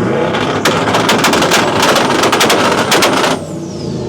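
Twin-turbo LS V8 in a Lincoln Continental held on the rev limiter, its exhaust popping and banging rapidly like machine-gun fire. About three seconds in the engine drops off and a high turbo whistle falls away in pitch.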